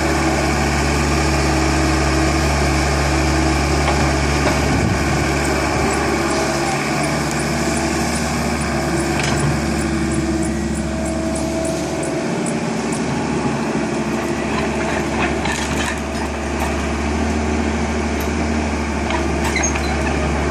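Tractor engine running steadily under load, with a run of light, evenly spaced ticks midway.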